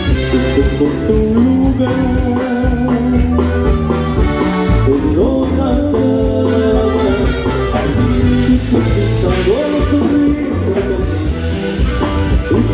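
Norteño band with saxophone playing an instrumental passage: held melody notes with slides over a steady bass and rhythm.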